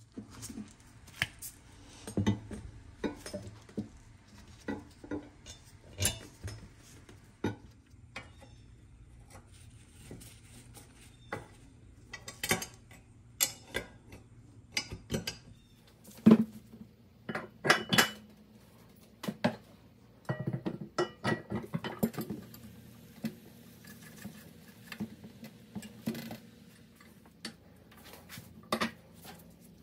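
Irregular clinks and knocks of metal parts handled during reassembly of an antique cast-iron ice crusher: painted cast-iron frame pieces and brass bolts and washers set down and fitted on a workbench and wooden base. The loudest clinks come in a cluster a little past the middle.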